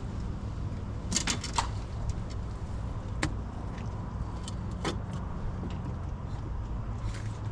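A few sharp clicks and scrapes of a fillet knife cutting a fish, a cluster about a second in and single ones around three and five seconds, over a steady low hum.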